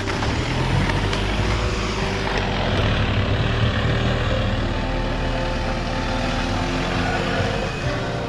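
A camper van's engine running loudly and steadily, with background music playing over it.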